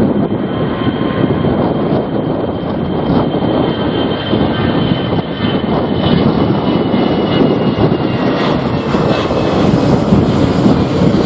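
Airliner engines running loud as the aircraft passes close on approach to land: a steady low rumble with a thin high whine that falls slowly in pitch. Brighter hiss joins about eight seconds in and the sound swells slightly.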